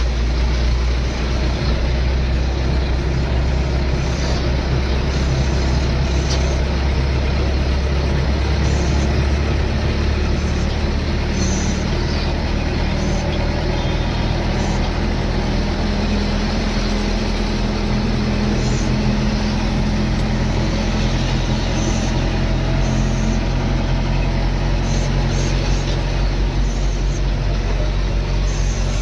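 Heavy diesel engine running steadily, with small shifts in pitch.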